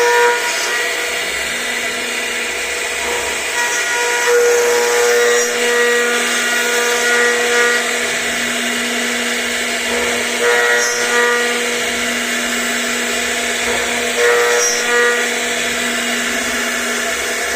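CNC router spindle running and cutting, a steady machine noise with a high whine that swells and fades every second or two as the bit works the piece.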